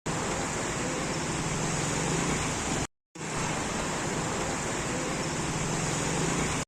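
Steady rushing of water, with a brief dropout about three seconds in before it carries on unchanged.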